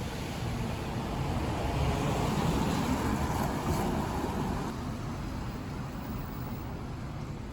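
A vehicle passing on the street, its tyre and engine noise swelling to a peak a few seconds in and then fading.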